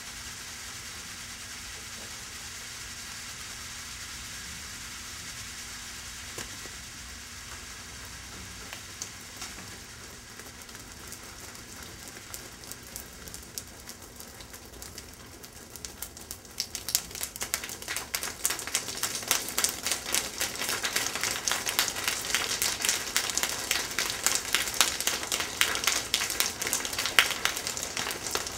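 Pop Rocks popping candy crackling: a steady hiss at first, then a fast crackle of many tiny pops that starts about halfway through and grows denser and louder.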